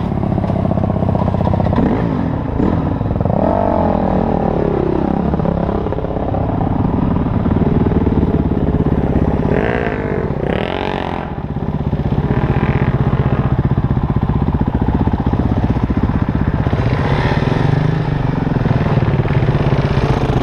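Motorcycle engine being ridden, revving up and down with quick rises in pitch, then running more steadily in the last part.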